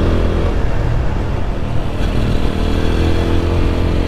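Motorcycle engine running while riding, its note sinking over the first couple of seconds and then rising again as the throttle comes back on through the bends.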